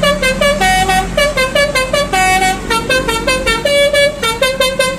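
Multi-tone 'telolet' bus horn playing a fast tune: a quick run of short, bright notes jumping up and down in pitch, several a second, over a low steady hum.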